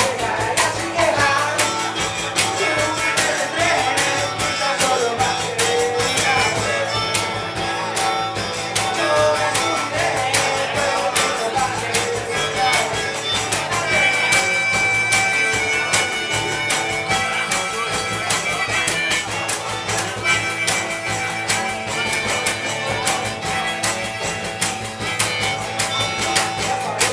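A band playing a rock song, with steady drum beats and guitar, and high held notes in the melody about halfway through.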